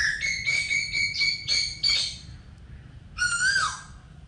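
Bird calling: a quick run of short repeated notes for about two seconds, then a single rising-and-falling call near the end.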